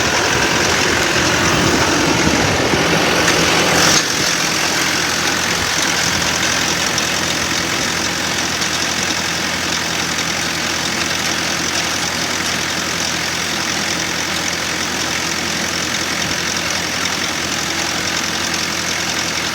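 Bobcat T590 skid steer's diesel engine running, busier and louder for the first four seconds, then dropping suddenly to a steady idle.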